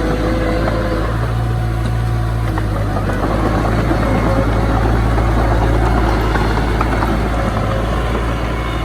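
Heavy earthmoving machinery engine running steadily, with a deep hum, scattered light clanks, and a slight swell in level around the middle.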